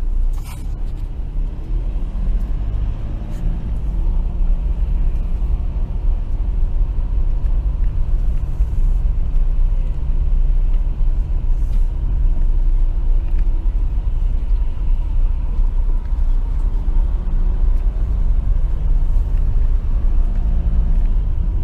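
Volkswagen Amarok pickup driving, heard from inside the cab: a steady low engine and road rumble whose engine note shifts a little as it goes.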